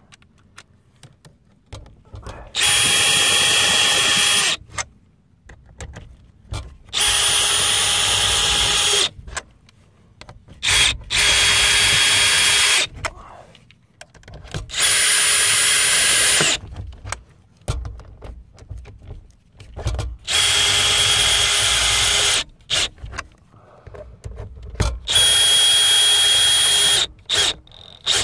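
Power drill running in six bursts of about two seconds each, at a steady speed, with short pauses between them.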